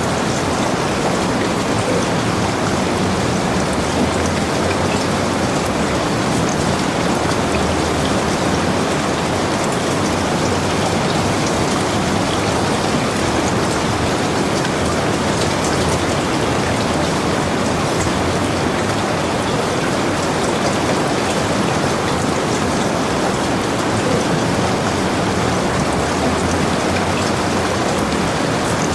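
Heavy rain falling steadily on and around a log cabin, a dense even hiss with the patter of drops.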